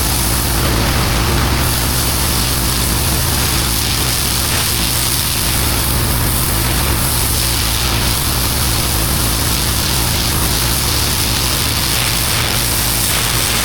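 Pressure-washer engine running steadily under load while the high-pressure water jet hisses against block paving.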